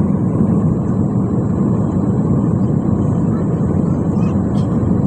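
Steady cabin noise of an airliner in flight: an even, loud rush of engines and airflow heard from inside the passenger cabin.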